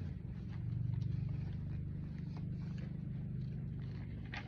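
A steady low motor hum, with faint rustling and light taps of paper and fabric journal pages being handled over it; the hum fades out near the end.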